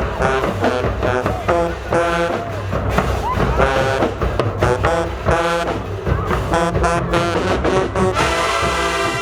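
High-school marching band playing: brass section blasting short, punched chords over drum strokes, then holding one long chord near the end.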